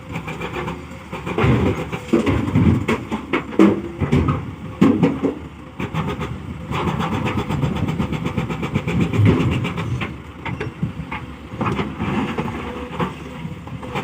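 Hyundai excavator's diesel engine running under load with a faint steady hydraulic whine, while soil and stones clatter and rattle irregularly as material is loaded through a sieve screen.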